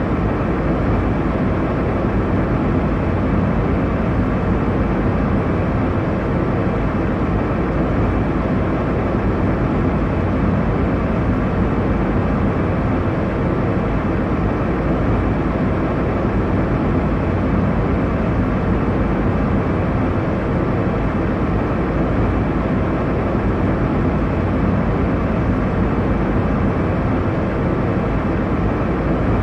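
Airliner passenger-cabin noise: a steady, even rush of engine and airflow noise, deep and unchanging.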